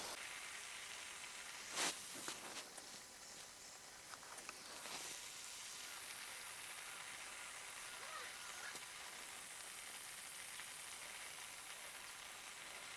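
Faint, steady high hiss of open-air farm ambience, with a single soft knock about two seconds in and a few light ticks.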